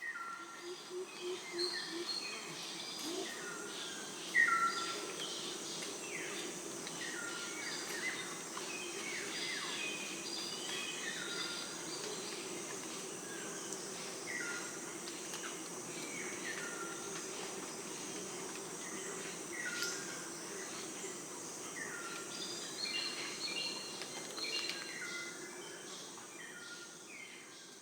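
Outdoor nature ambience: a bird repeats short chirps that slide downward, about once a second, over a steady background hum.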